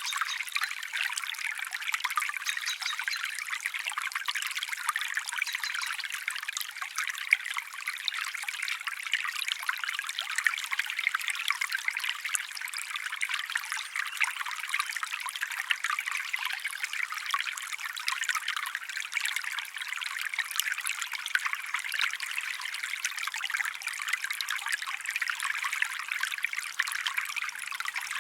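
A small stream trickling steadily, a continuous bright splashing with fine crackle and no low rumble.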